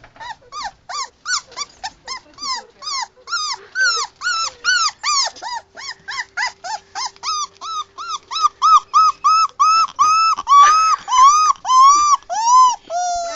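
Young puppy crying in a steady string of short, high-pitched whimpering yelps, about three a second, each rising and falling in pitch. The cries grow louder and a little longer in the second half. The puppy is crying because it is not yet used to its new sleeping place.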